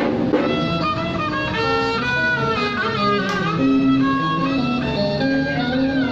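Traditional Vietnamese ceremonial music: a bowed string melody with sliding, held notes over plucked string accompaniment, playing continuously.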